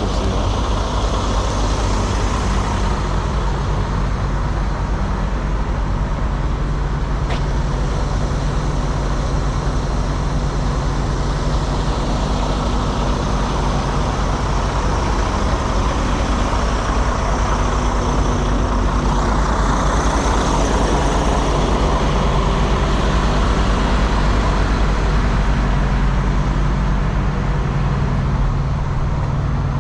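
A heavy truck's diesel engine idling steadily, under a constant wash of highway traffic noise.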